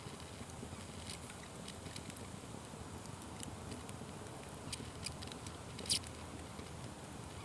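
Open fire crackling: scattered small pops and snaps over a steady low rush of burning, with one sharper, louder pop about six seconds in.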